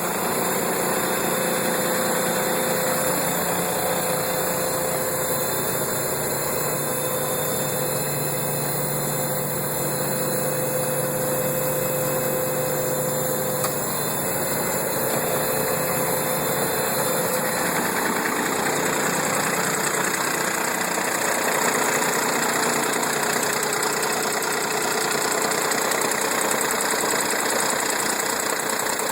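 A 1988 International 4WD dump truck's engine idling steadily.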